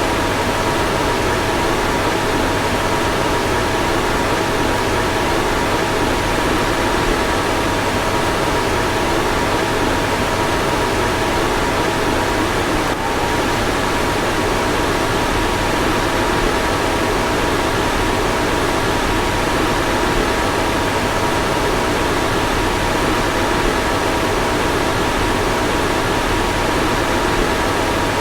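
Car fan running steadily: an even rush of moving air with two faint steady whining tones on top. Partway through, about halfway in, there is a brief small dip and wobble in the tones.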